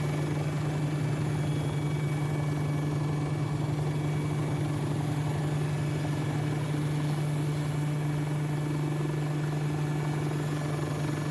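Helicopter running with a steady drone and a constant low hum; it fades away at the very end.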